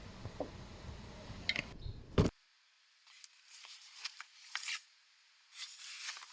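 Light clicks, taps and scraping of hand work with tools and parts, with one sharp click about two seconds in. After it the low background drops out and only faint clicks and scraping remain.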